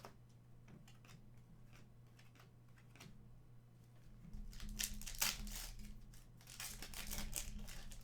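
Cards being handled with light clicks, then a trading-card pack wrapper torn open and crinkled in two louder crackly bouts in the second half.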